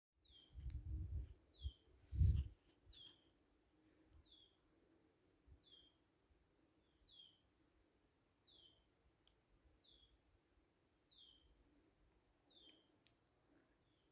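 A songbird repeating a two-note phrase over and over, a short high note followed by a falling one, roughly once every second and a half. A few low thumps in the first two and a half seconds, the loudest about two seconds in.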